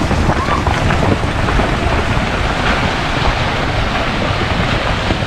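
Loud, steady rushing noise with heavy wind buffeting the microphone.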